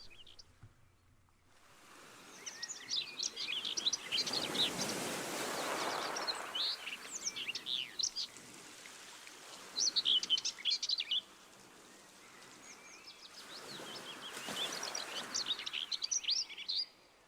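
Birds chirping in quick clusters over water sounds that swell and ebb twice, like sea waves washing in.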